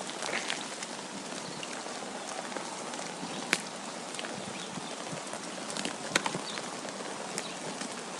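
Snowstorm ambience: a steady hiss of wind and falling snow, with scattered sharp ticks, the loudest about three and a half and six seconds in.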